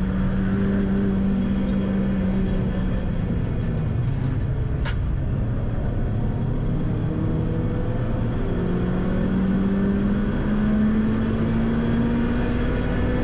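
Renault Clio III RS's 2.0-litre four-cylinder engine heard from inside the cabin: it holds high revs, falls away under hard braking into a corner, with a sharp click about five seconds in, then rises steadily as the car accelerates out.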